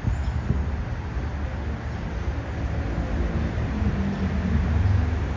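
Low rumble of motor-vehicle traffic with an engine running, swelling a little about four to five seconds in.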